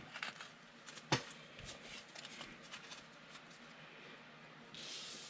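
Football trading cards being handled and flipped through by hand: soft card-on-card slides and light clicks, with one sharper click about a second in and a brief rustle near the end.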